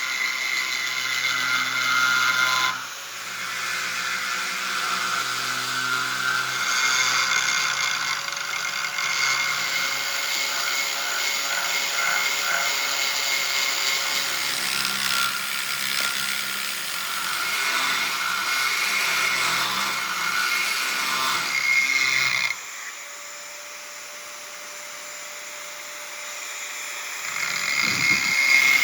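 Power grinder grinding a steel knife blade: a steady, gritty whine with a few fixed pitches. It drops briefly about three seconds in, falls to a quieter hum about three quarters of the way through, and picks up again near the end.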